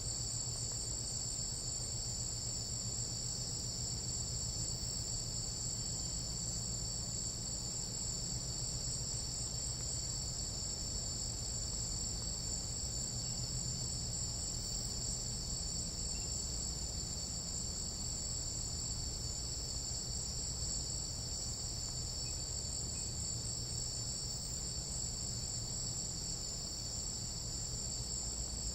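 Tropical jungle night-insect chorus: several overlapping insects calling at once, making a steady, high-pitched drone that never pauses, over a low rumble.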